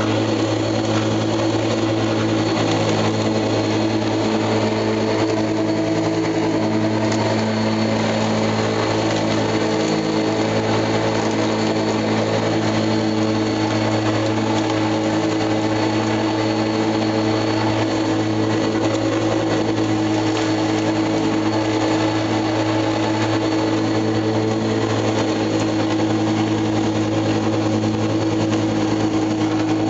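Lawnmower running steadily at a constant pitch, with no change in speed.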